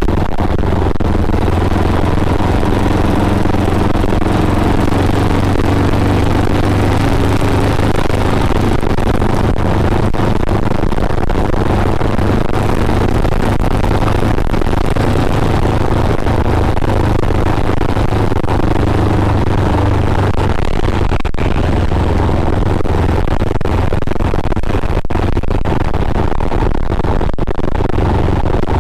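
Custom Yamaha Scorpio motorcycle's single-cylinder four-stroke engine running steadily while riding along at cruising speed, with road noise.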